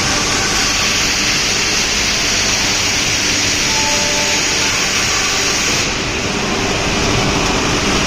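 Spiral pipe welding mill machinery running: a steady, loud industrial hiss and rumble with faint hum tones, with no change in rhythm or pitch.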